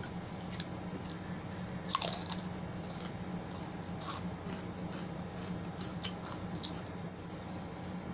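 Close-up crunching bites and chewing of crisp food, with a loudest crunch about two seconds in, over a steady low hum.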